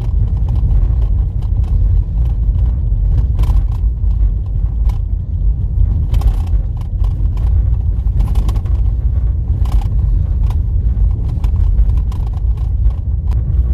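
Car driving on a rough dirt road: a steady low rumble of road noise, broken by frequent short knocks and rattles.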